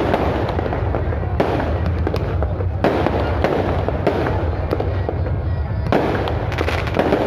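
Fireworks bursting overhead in a continuous dense crackle. Sharper bangs land about a second and a half apart near the start, and another comes about six seconds in.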